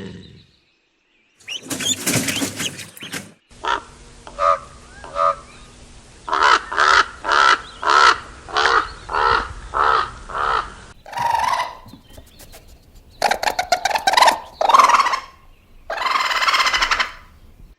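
A series of bird calls. First comes a single call, then a long run of short calls repeated about twice a second, then several separate bursts of calling.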